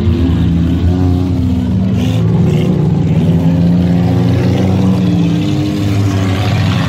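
Demolition derby car engines running and revving, several pitches overlapping at a steady, loud level.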